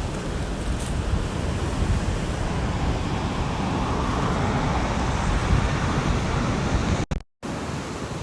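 Rough storm surf pounding the shore, mixed with wind on the microphone: a steady roar that swells and then eases in the middle. The sound drops out briefly about seven seconds in.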